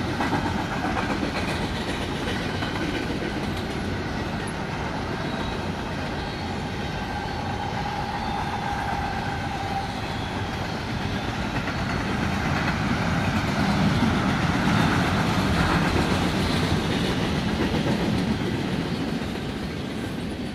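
Freight train of double-stack intermodal well cars rolling past on the rails with a steady rolling noise. It grows louder partway through, then eases off near the end as the last car goes by.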